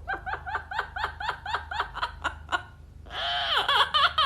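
Parrot imitating laughter: a rapid run of high-pitched 'ha-ha' notes, about five a second, then a drawn-out note about three seconds in and a few more quick laughing notes.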